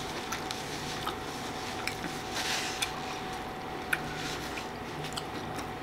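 A person chewing food close to the microphone: soft, wet mouth clicks and smacks scattered irregularly, with a brief louder patch of chewing about two and a half seconds in, over a faint steady hum.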